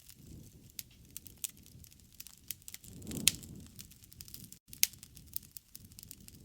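Wood campfire crackling, with irregular sharp pops over a low rumble of the flames; the rumble swells about 3 s in, where the loudest pop comes, and another strong pop follows near 5 s.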